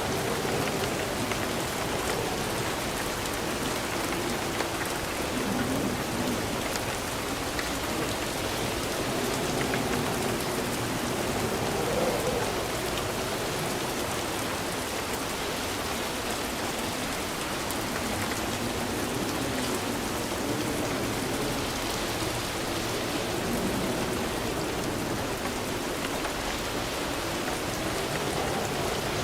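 Steady rain falling, an even, continuous hiss of drops with gentle swells.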